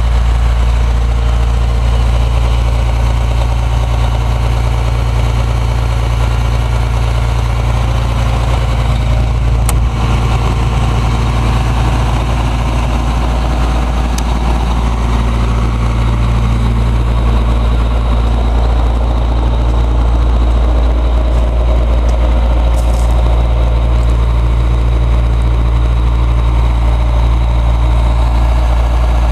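Caterpillar 345B hydraulic excavator's diesel engine running steadily.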